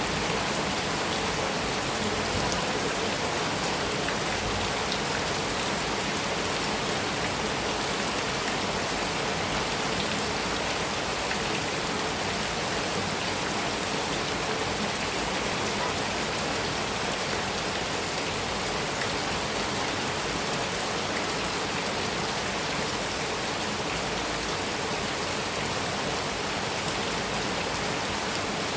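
Heavy rain falling steadily on a metal roof, an even, unbroken patter.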